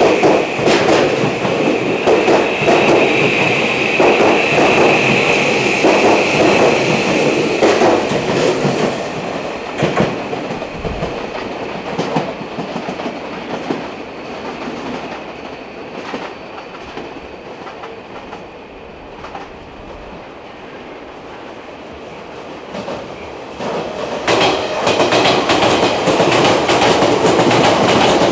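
Electric commuter trains running through the station. Wheels clatter over rail joints and a steady high squeal sounds above them. The first train fades away, and about 24 seconds in another train approaches and grows loud.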